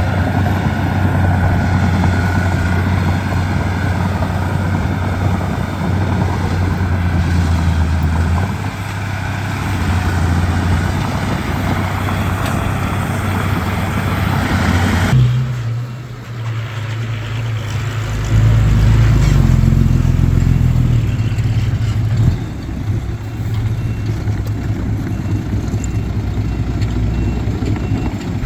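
Diesel engine of a Komatsu D31P bulldozer running under working load, its low engine note shifting in strength, with an abrupt change in the sound about halfway through.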